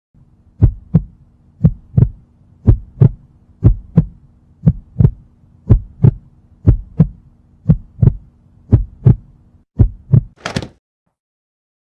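Heartbeat sound effect: about ten double thumps, lub-dub, roughly one pair a second, over a low steady hum, ending with a brief sharper hit about ten and a half seconds in.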